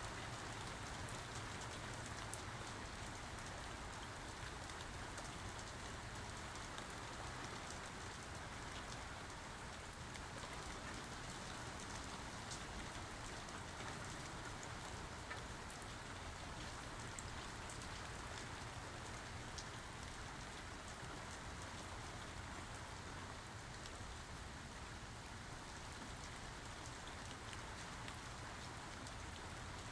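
Steady rain falling, with drops pattering on surfaces and no thunder.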